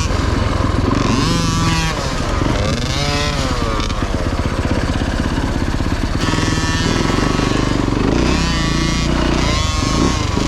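Dirt bike engine running hard on a motocross track, its pitch rising and falling several times as the throttle is opened and closed through the turns and jumps.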